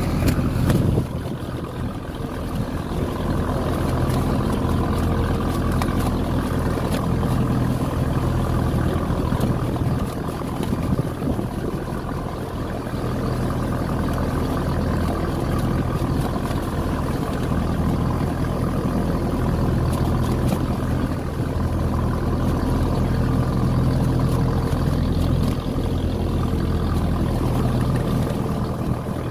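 Passenger motorboat's engine running with a steady low hum, heard from on board, with a brief louder surge about a second in.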